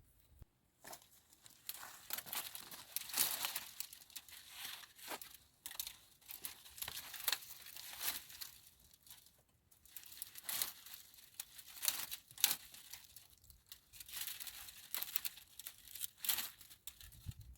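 Irregular crumpling, crinkling and tearing of dry material being handled, in uneven crackly bursts with short pauses between them.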